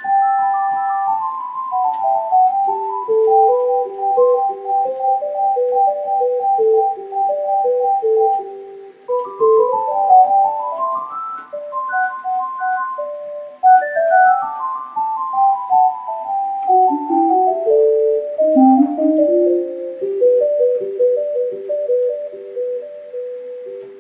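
A chaconne played on an electronic keyboard in fast runs of single notes, one after another, that climb and fall through the middle and upper register, with a lower line underneath.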